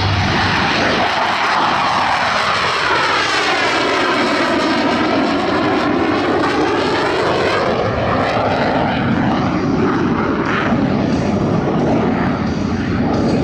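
Blue Angels F/A-18 Hornet jets making a loud pass overhead: steady jet noise with a sweeping, swirling tone from about two seconds in as the aircraft go by, then fading somewhat.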